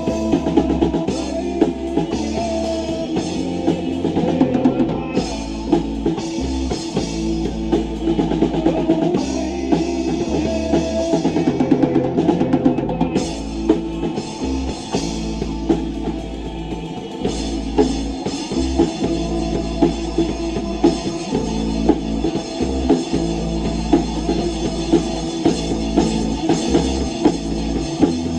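Rock band playing an instrumental passage on drum kit, bass and electric guitar. The drums keep a steady beat of bass and snare drum.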